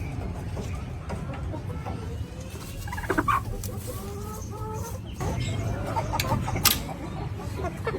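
Aseel chickens clucking in a run of short calls, with a few sharp knocks and a steady low rumble behind.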